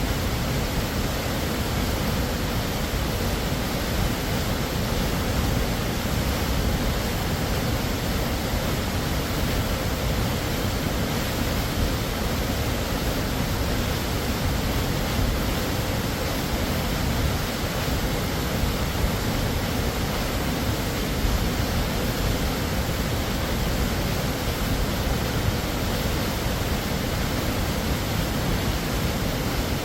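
Waterfall: a steady, unbroken rush of falling water, heaviest in its deep low rumble.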